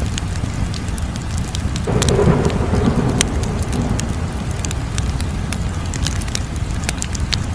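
Wood fire burning: a steady low rumble of flames with scattered sharp crackles and pops. About two seconds in, a louder rushing swell starts suddenly and fades away over about two seconds.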